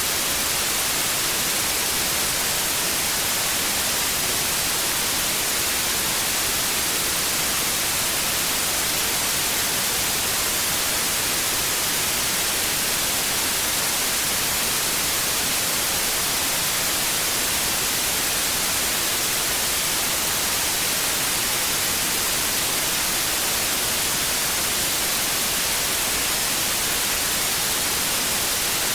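TV static: a steady, unchanging hiss of white noise, brightest in the high frequencies.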